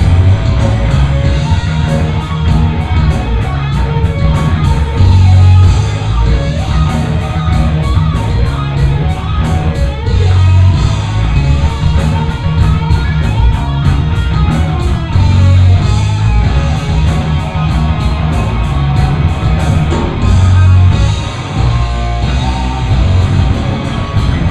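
Live hard rock band playing: distorted electric guitar over bass and drums keeping a steady beat.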